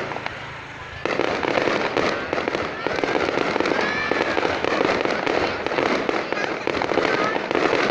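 Fireworks going off in a dense, continuous crackle of many small bursts, which swells up suddenly about a second in.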